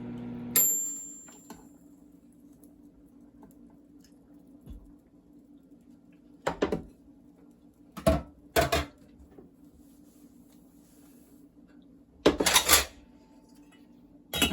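Dishes and cutlery being handled: a steady electrical hum cuts off with a sharp click about half a second in, then a few separate clinks and clatters of tableware, the longest near the end.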